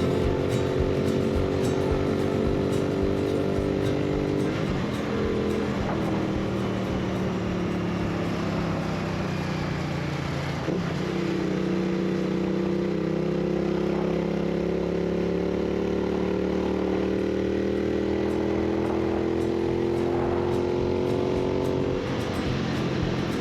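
Royal Enfield 650 parallel-twin motorcycle engine running under way, its note dropping suddenly about four and a half and eleven seconds in, then climbing slowly as the bike picks up speed.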